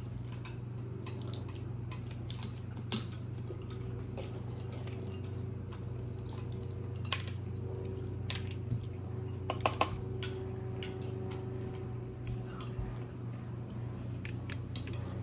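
Spoons and dishes clinking and tapping at the table while balut is eaten, in scattered single ticks with a quick cluster of three about ten seconds in. A steady low hum runs underneath.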